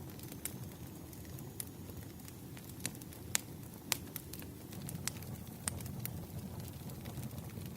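Wood fire crackling: a steady low rumble of burning logs with irregular sharp pops and snaps, the two loudest a little past the middle.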